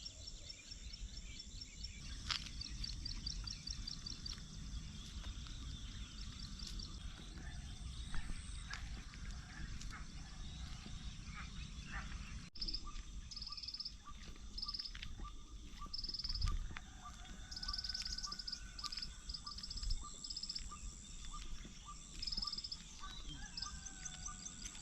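Countryside nature ambience: birds chirping amid repeated high-pitched pulsed trills, over a low steady rumble.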